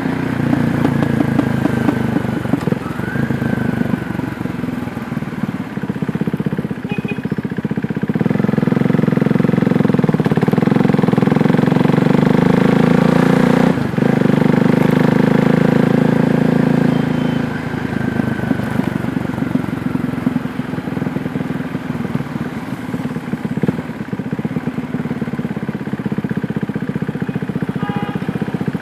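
KTM Duke 390's single-cylinder engine running on the road, pulsing at lower revs, then louder and steadier from about eight to seventeen seconds in, with a brief sharp click near the middle.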